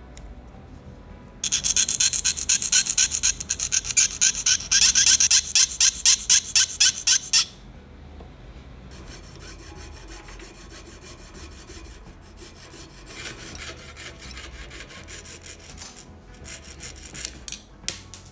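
Rapid back-and-forth abrasive scraping, like filing or sanding a small part by hand, at about four strokes a second. It stops suddenly after about six seconds, then comes back fainter with a few sharp knocks near the end.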